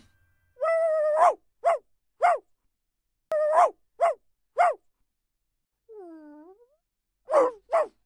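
Puppy barking in high-pitched yips: twice a drawn-out yip ending in a bark, each followed by two quick barks. About six seconds in comes a soft whine that dips and rises in pitch, then two quick barks near the end.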